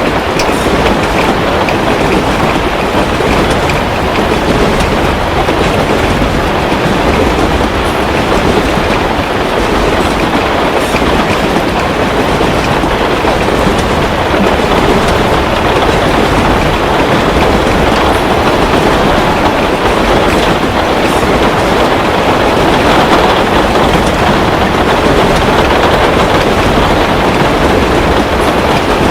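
Steady heavy rain with a low rumble, over which a fireplace gives occasional faint crackles.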